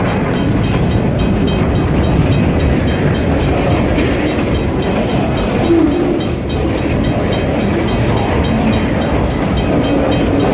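A long freight train's cars rolling past at close range: a steady, loud rumble of wheels on rail with rapid, regular clicks.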